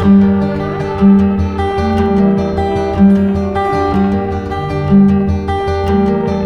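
Background music on acoustic guitar, plucked and strummed, with a low note sounding again roughly every second.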